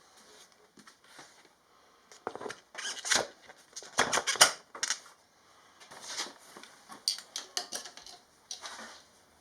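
Workshop clatter: metal parts and tools being handled, with irregular clinks and knocks, loudest in a cluster about three to five seconds in and again around seven to eight seconds.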